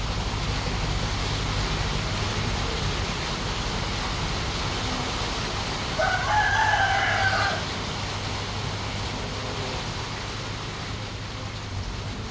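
A rooster crows once, about six seconds in, over a steady low background hum.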